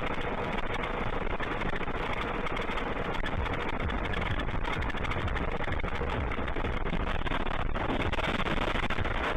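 Steady road, wind and engine noise of a moving car, picked up by a dashcam microphone, with a low rumble underneath.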